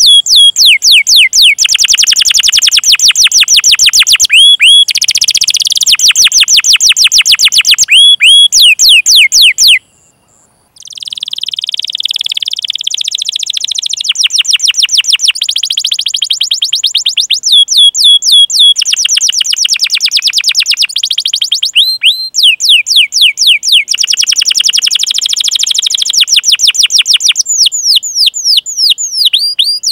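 Domestic canary singing long, rapid runs of high, repeated falling notes, the 'cuit cuit' rolling song. The song breaks off for about a second roughly a third of the way in, then resumes.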